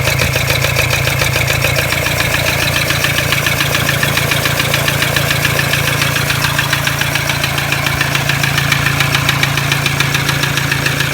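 Toyota 1KD-FTV 3.0-litre four-cylinder turbodiesel idling with a steady, rapid rattling knock, which the owner suspects is a cracked piston.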